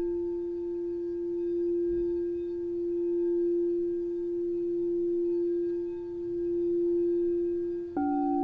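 Singing bowl ringing with one steady tone, its loudness swelling and ebbing slowly. Near the end a second bowl is struck and a new set of tones, partly lower, joins in.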